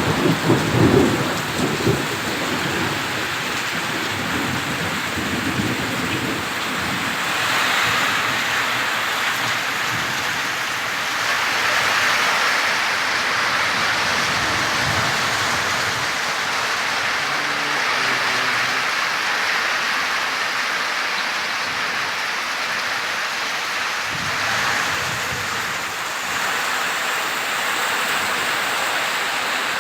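Heavy rain falling steadily, a dense hiss that swells and eases a little, with a low rumble in the first couple of seconds.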